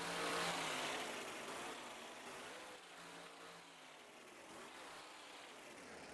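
Monster truck engine revving in surges as the truck drives, loudest in the first second and then easing off.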